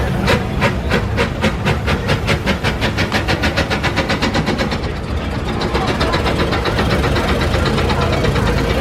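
Steam traction engine's exhaust chuffing in sharp, regular beats that quicken from about three to about six a second as it gets under way. About five seconds in the beats turn duller and blur into a steadier rumble.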